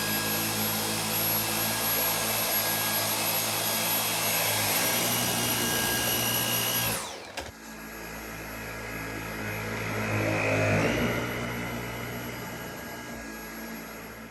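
Dyson V8 cordless stick vacuum running on max power with a steady high-pitched motor whine, sucking carpet freshener up off a carpet. About halfway through, the sound falls away suddenly, then comes back quieter and briefly rises in pitch.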